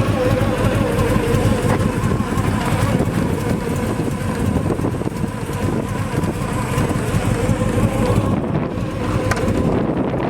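383 stroker V8 idling steadily, with the electric radiator fan running up front and giving a steady whine over the engine.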